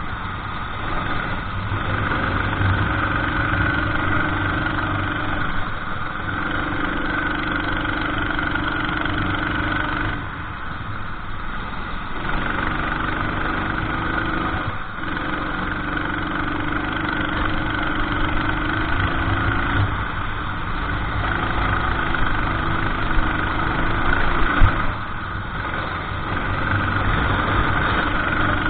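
Racing kart engine at high revs, heard onboard, dropping off and picking back up about six times as the driver lifts off for corners and accelerates out of them.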